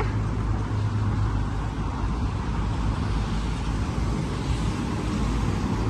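Steady low rumble with a hiss above it, unchanging, with no single event standing out.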